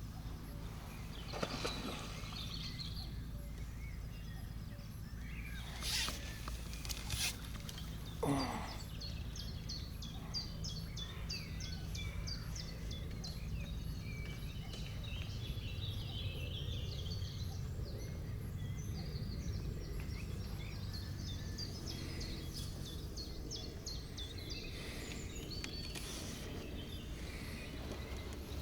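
Outdoor lakeside ambience: a steady low wind rumble with a few sharp knocks in the first third, then a small bird singing in rapid, repeated high notes for most of the rest.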